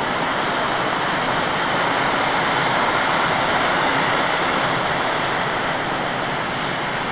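Freight train of covered goods wagons rolling past at speed: a steady rush and rumble of steel wheels on the rails, a little louder in the middle.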